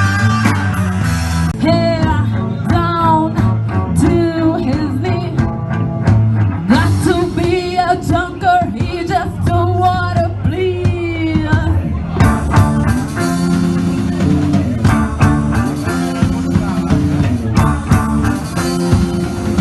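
Rock band playing live, with drums, bass and guitar. A wavering lead melody, sung or played, bends over the band through the first part, then gives way to fuller steady playing after about twelve seconds.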